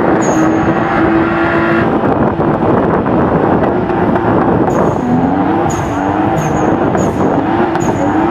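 Toyota Supra doing a burnout: engine held at high revs with tires squealing. About halfway through, the revs dip and climb again several times.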